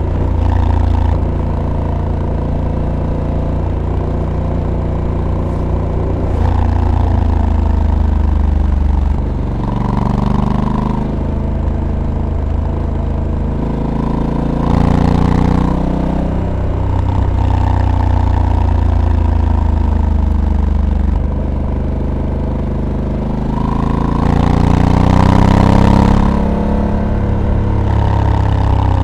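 Honda Africa Twin DCT's 1084 cc parallel-twin engine under way, its pitch rising and falling repeatedly as the rider pulls and eases off, with the strongest pull near the end.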